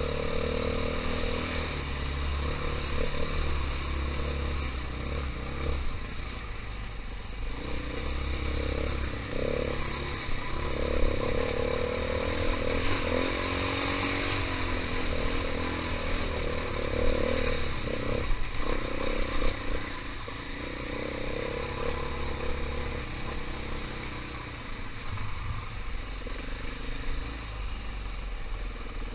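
KTM 500 EXC single-cylinder four-stroke dirt bike engine running on a rough trail, its pitch rising and falling again and again as the throttle is worked, with some clattering from the bike.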